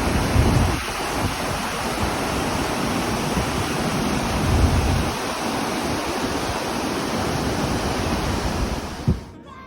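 Steady rush of a fast, full river, with wind gusting on the microphone. There is a short thump about nine seconds in, and the sound cuts off suddenly just after it.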